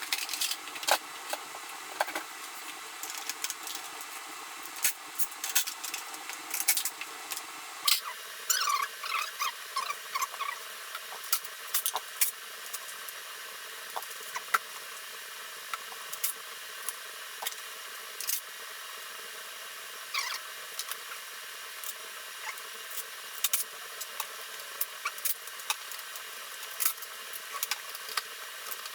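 Irregular light clicks and clinks of hand tools and metal parts being handled while working on a dirt bike, over a steady hiss.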